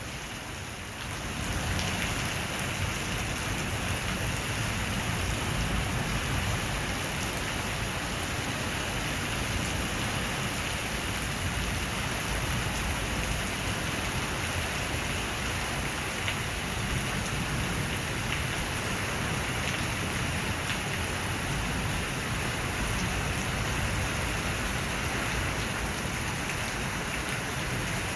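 Heavy rain falling steadily, a dense even hiss that swells up about a second in.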